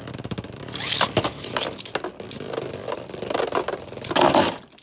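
Two Beyblade spinning tops, one of them 3D-printed, spinning and clashing in a plastic stadium: a dense run of rattling, scraping clicks and knocks. It peaks in a burst of hard clashes near the end, then drops away to a few scattered clicks.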